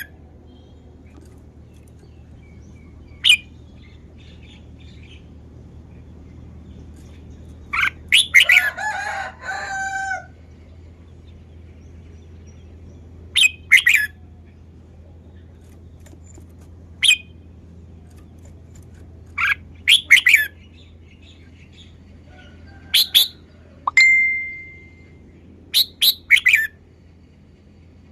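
Red-whiskered bulbul singing short, sharp phrases every few seconds, with a longer warbling phrase about eight seconds in and one held whistled note near the end. A faint steady low hum runs underneath.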